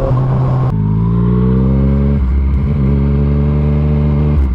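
Yamaha MT-09's three-cylinder engine through an Arrow aftermarket exhaust, pulling hard with its note rising, dropping sharply at a gear change about two seconds in, then rising again in the next gear.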